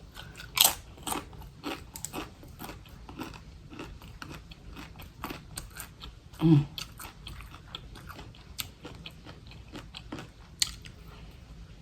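Chipotle tortilla chips with salt and lime being bitten and chewed, a string of irregular crisp crunches.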